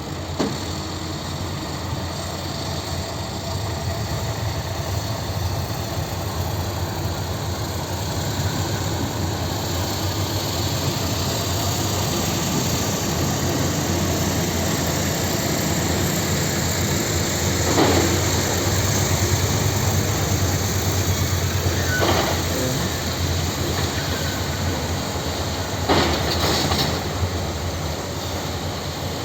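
Tractor engine running steadily while working stone, with a few sharp knocks: one right at the start and three more in the second half, about four seconds apart.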